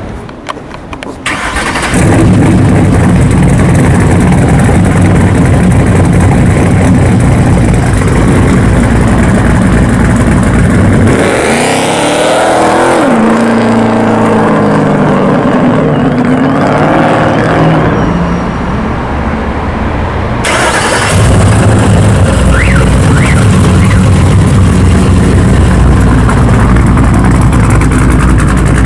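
Ford Mustang GT's V8 with a loud Dynomax aftermarket exhaust. A few clicks, then it starts abruptly about two seconds in and runs with a steady low exhaust note. Midway its pitch rises and falls as the engine revs and accelerates, then it settles back to a steady loud note.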